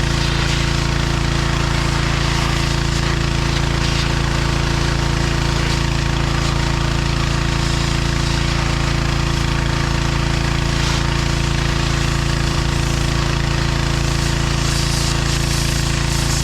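John Deere 1025R compact tractor's three-cylinder diesel engine running steadily while working its 260B backhoe, with an even, unchanging clatter.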